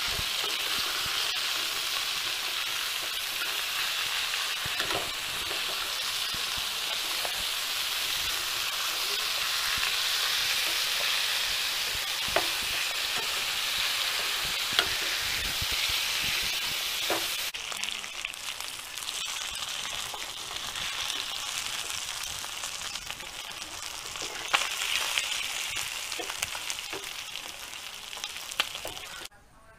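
Green-masala-coated chicken pieces sizzling in hot oil in a black iron pan, with a metal spatula clicking and scraping against the pan as the pieces are turned. The sizzle steps down a little about two-thirds of the way through.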